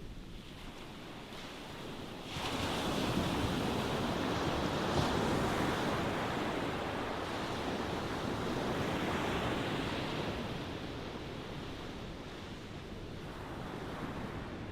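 Ocean waves: a wave surges in sharply about two seconds in, washes loudly for several seconds, then eases off.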